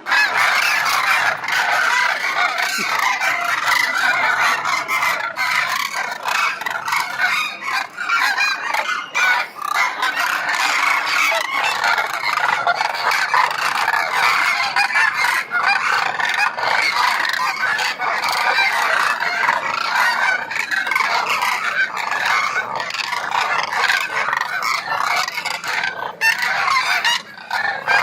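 A large flock of migratory birds calling without pause, many overlapping calls at once.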